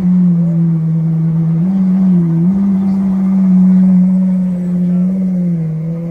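Ferrari Daytona SP3's naturally aspirated V12 running at low revs as the car creeps off, a steady drone whose pitch rises and dips slightly a couple of times and eases off near the end.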